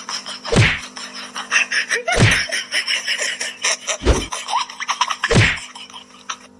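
Four heavy thumps, one to two seconds apart, over a fast clatter of small clicks and a steady hum.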